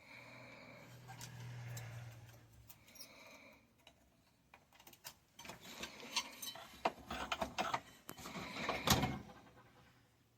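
A low, wordless hum for about three seconds, then a run of small clicks, taps and rattles of tools and parts being handled at the workbench, loudest about a second before the end.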